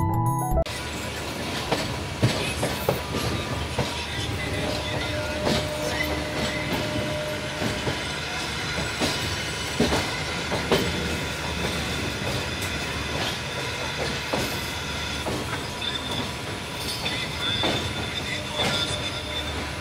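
Intro music cuts off within the first second, then a train is heard from aboard as it rolls through the station yard: a steady rumble with irregular knocks as the wheels cross rail joints and points, and a thin, steady wheel squeal.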